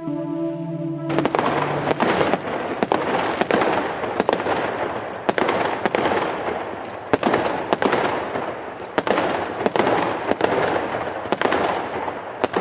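Background music cuts off about a second in and gives way to dense crackling fireworks, with sharp bangs every half second to a second through the crackle.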